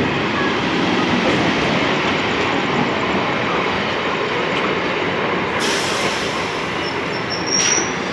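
Indian Railways electric multiple-unit suburban train running past along the platform, a loud, steady rumble of wheels on rail. A high hiss joins about five and a half seconds in, and near the end a brief high squeal comes from the wheels as the train slows into the station.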